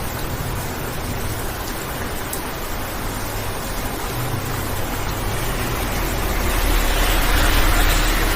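Rain tapping on a car windshield over a low, steady cabin hum, heard from inside the car. The rushing noise and the low hum swell louder about seven seconds in.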